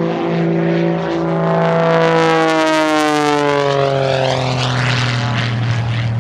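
Pitts aerobatic biplane's piston engine and propeller passing close at power: a loud droning note whose pitch drops as the plane flies by, loudest about two seconds in.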